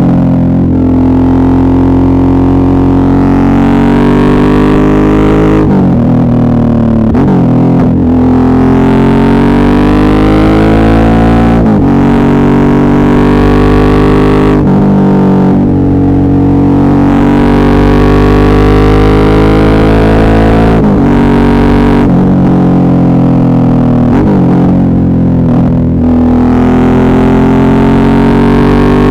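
Suzuki V-Strom 650's V-twin engine under way, its revs climbing and then dropping sharply at each gear change, several times over, with stretches where the revs fall away as the bike slows.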